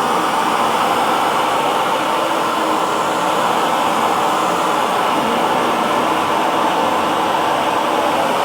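Electric hair dryer running steadily on one setting, a constant whooshing hum with no change.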